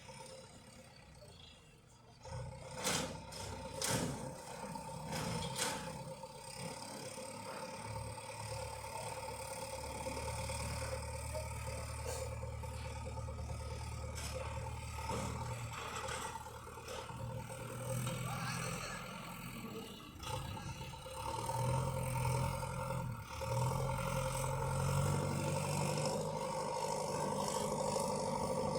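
Tractor engine running, with a few sharp knocks a few seconds in; about two-thirds of the way through its note rises and it gets louder as the engine speeds up.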